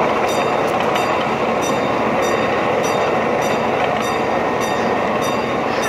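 Miniature ride-on train rolling along its track, heard from aboard: a steady rumble of wheels on rail with a regular click from the rail joints, a little under two clicks a second.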